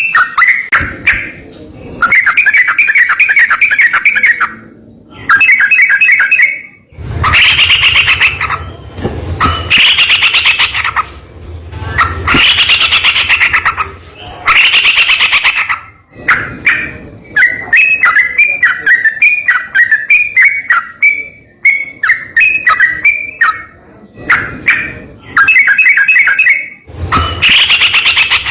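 Yellow-vented bulbul singing in repeated bursts of rapid chattering notes, each burst lasting a second or two with short pauses between.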